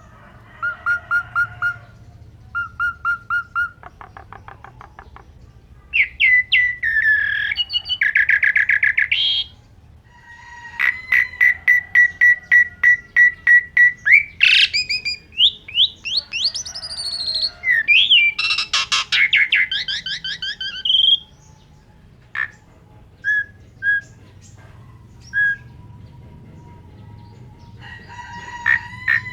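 Asian pied starling (jalak suren) singing a varied song of rapid repeated notes, trills and sweeping whistles in loud phrases. In the last third it drops to a few short separate notes before starting up again near the end.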